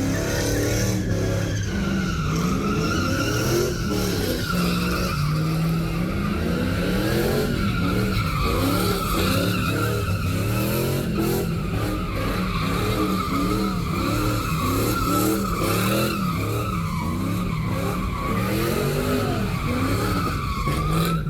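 A vehicle doing a burnout: its tyres squeal continuously while the engine revs up and down again and again, held at high revs throughout.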